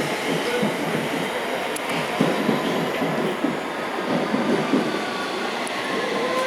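London Underground S7 Stock District Line train running into the platform: steady rail and wheel noise with irregular knocks from the wheels over the track.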